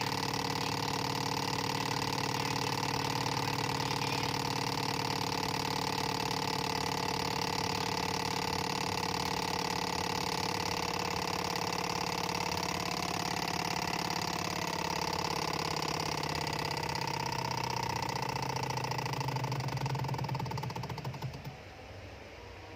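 Small Stirling engine running steadily with a fast, even mechanical clatter and hum, which falls away about 21 seconds in.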